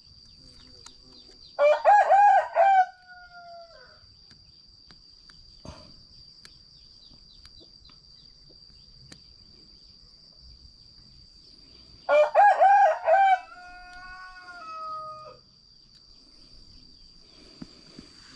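A rooster crowing twice, about ten seconds apart, each crow ending in a long falling tail, over a steady high insect drone.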